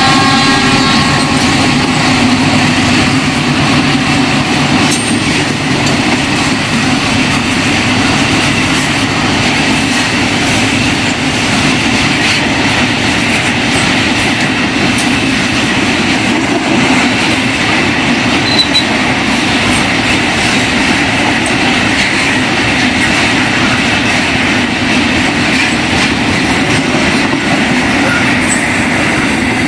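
Long freight train of container wagons rolling past close by: a loud, steady noise of steel wheels running on the rails. A locomotive horn fades out about a second in.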